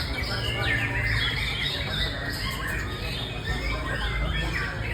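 White-rumped shama (murai batu) singing, a rapid unbroken run of short rising and falling notes.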